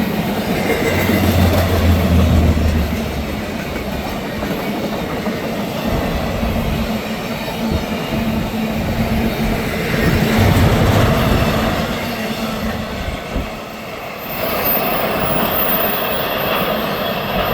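Freight train cars rolling past, steel wheels clacking over the rail joints, the cars of a CSX intermodal train carrying highway trailers on flatcars.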